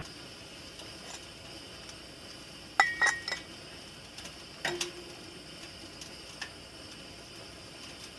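Dishes and utensils clinking: a quick cluster of sharp clinks about three seconds in, one ringing briefly, and a single lower-ringing clink near five seconds, with a few light taps.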